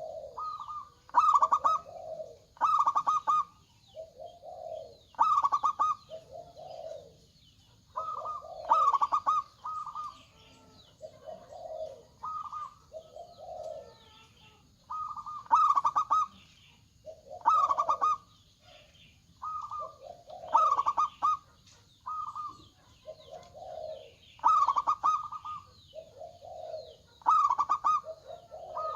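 Zebra doves (perkutut) cooing, one short phrase every second or two. Louder, higher phrases made of quick notes alternate with softer, lower coos.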